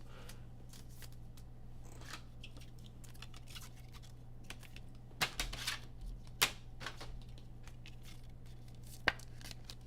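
Trading card packs being torn open and the cards handled: scattered rustling, a short tearing rasp a little past halfway, and sharp clicks of cards, over a low steady hum.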